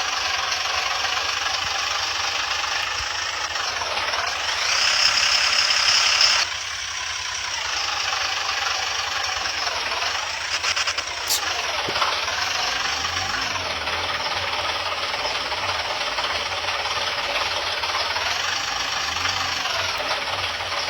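Construction-vehicle engine sound effect running steadily, its pitch dipping and rising every couple of seconds, with a louder, brighter stretch about four to six seconds in.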